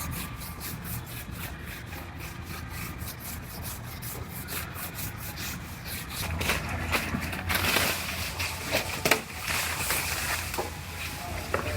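Hand sanding on a car body panel: quick back-and-forth strokes, several a second, growing louder and more irregular about halfway through.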